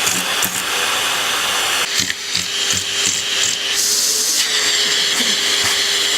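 Vacuum cleaner running steadily with a constant hum, its hiss shifting in tone about two and four seconds in.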